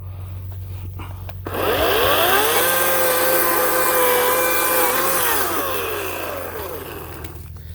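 Ryobi 18-inch electric chainsaw whining up to speed about a second and a half in, running steadily for about three seconds, then winding down with a falling whine.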